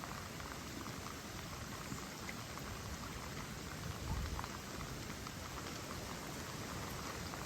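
Steady rain falling, with scattered drops ticking. A brief low rumble comes about four seconds in.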